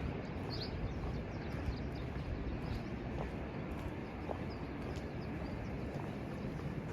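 Footsteps going down outdoor steps over steady outdoor background noise, with a few faint bird chirps.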